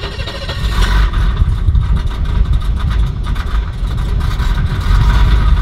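BMW 635CSi (E24) straight-six engine just started and running at idle, building up over the first second and then holding steady. The idle is slightly uneven, which the owners suspect comes from the ignition system.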